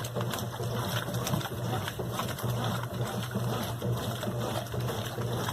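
Brastemp BWQ 24 washing machine running: a steady low motor hum with water churning and splashing in the tub.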